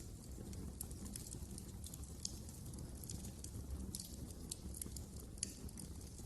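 Wood fire crackling in a fireplace: a steady low rumble of burning with many small, irregular pops and snaps, and a sharper pop about five and a half seconds in.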